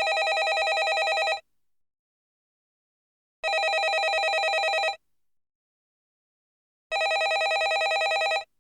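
Landline telephone ringing: three rings, each a rapid trill about a second and a half long, repeating every three and a half seconds or so with silence in between.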